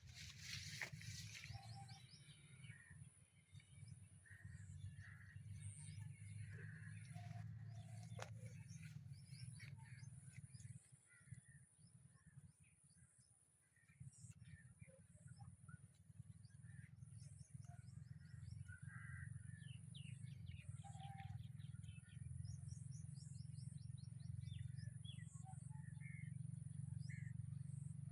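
Faint, scattered bird chirps over a low, steady rumble that fades briefly in the middle, with a thin, steady high-pitched whine above.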